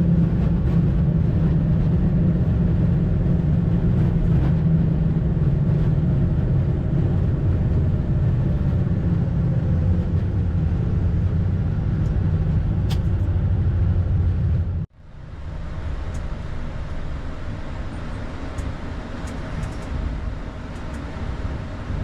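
Steady low rumble of engine and airflow noise on an Airbus A220-300 flight deck as the jet rolls out after landing. About 15 seconds in, the sound cuts off abruptly and comes back as a quieter, even cockpit hum.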